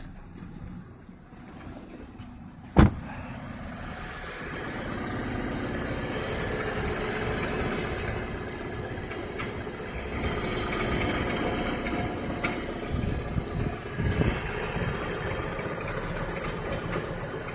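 Mitsubishi 4G93 GDI 1.8-litre four-cylinder petrol engine idling with an irregular knock, which the owner says appeared after refuelling and only when the engine is warm and in gear. A single sharp bang about three seconds in, after which the engine sound grows louder.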